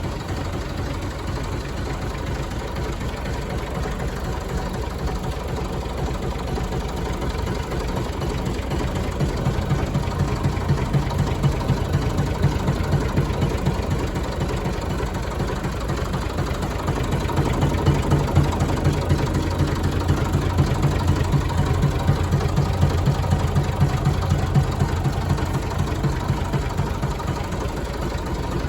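1965 Massey Ferguson 135 tractor engine running steadily, getting somewhat louder twice, about a third of the way in and again past halfway.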